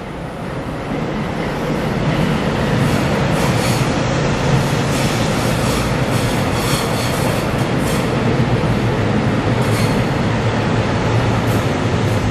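Passenger train running past on the line close by: a steady rumble that builds over the first two seconds and then holds, with repeated clicks of the wheels over the rails.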